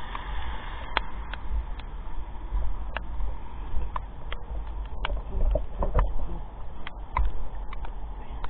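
Steady rain falling, with a low rumble and scattered sharp taps at irregular intervals.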